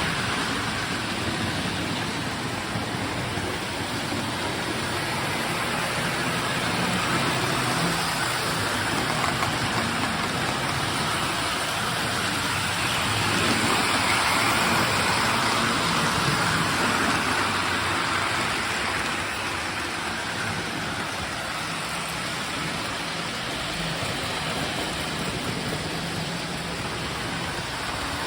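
Two postwar Lionel 2343 Santa Fe F3 diesel trains running around an O-gauge layout: a steady rumble of wheels on the rails mixed with the whir of the locomotive motors. It swells for a few seconds about halfway through, as a train passes close.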